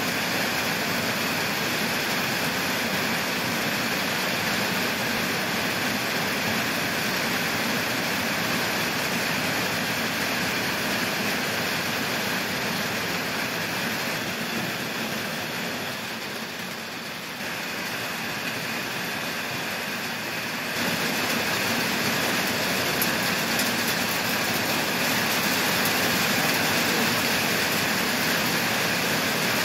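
Heavy rain pouring down as a steady, even hiss. It eases briefly a little past halfway, then comes back stronger.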